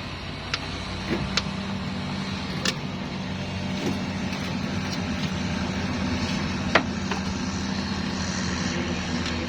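A motor vehicle engine running steadily with a low hum, with a few sharp clicks over it. The loudest click comes about seven seconds in.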